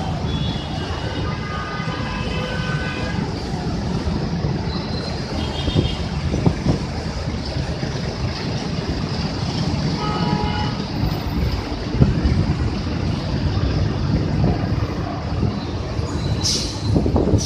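City buses running at a busway station: a steady low engine and road rumble, with short high squealing tones a few times, longest in the first few seconds.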